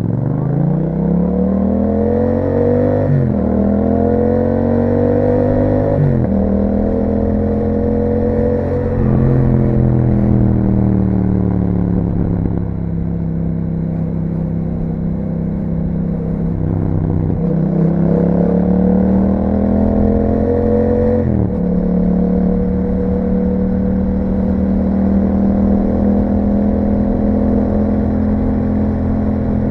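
2021 Yamaha MT-07's 689 cc parallel-twin engine through an Akrapovic exhaust, pulling through the gears. Its pitch climbs and drops sharply at two quick upshifts in the first several seconds, falls away as the throttle eases, then rises again to another upshift about two-thirds of the way through before settling into a steady cruise.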